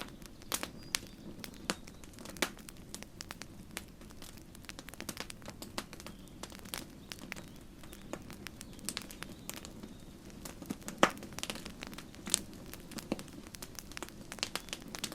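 Campfire crackling: irregular sharp pops and snaps from the burning wood over a steady low noise of the fire, with the loudest pop about eleven seconds in.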